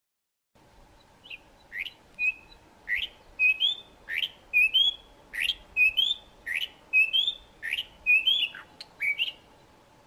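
Ant-eating chat calling: a quick series of short, clear chirps and whistles, about two a second. Steep sweeping notes alternate with short slurred ones, starting about half a second in and stopping shortly before the end.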